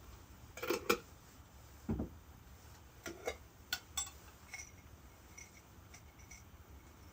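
Dishes and utensils clinking and knocking as they are handled. Two sharp clinks come about a second in, then a duller knock, a quick run of about four clinks, and a few fainter light ticks.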